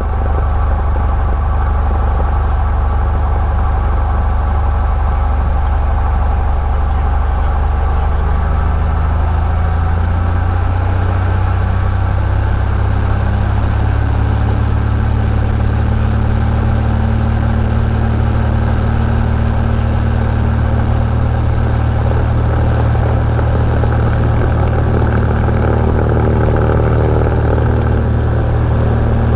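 Cessna 172's freshly overhauled piston engine running steadily on its break-in run, a low drone that rises slightly in pitch about ten to twelve seconds in as the revs come up.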